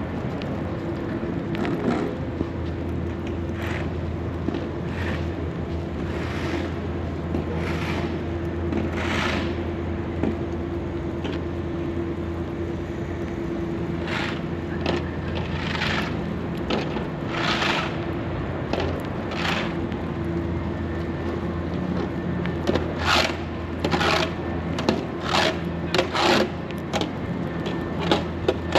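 Footsteps crunching in fresh snow, spaced out at first and quicker near the end, over a steady low mechanical hum.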